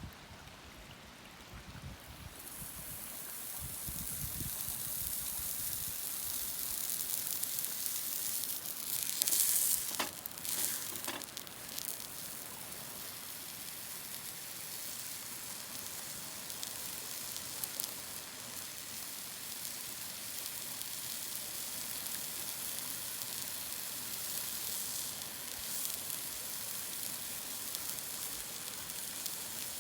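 Food sizzling over a campfire: a steady high sizzle that flares louder for a couple of seconds around ten seconds in.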